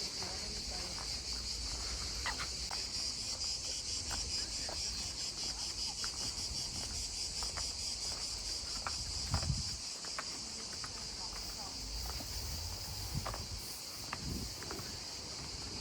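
A steady, high-pitched chorus of chirring insects, with faint scattered clicks.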